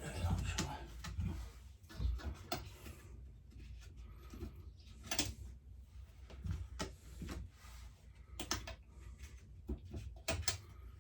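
Scattered, irregular clicks and knocks of tools and parts being handled.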